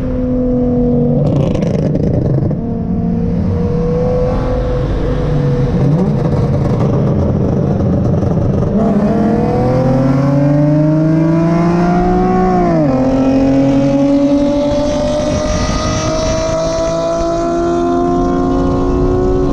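Infiniti G35's V6 engine heard from a car under way: it holds a steady pitch while cruising, then the pitch climbs as the car accelerates, drops sharply at a gear change about 13 seconds in, and climbs again through the next gear.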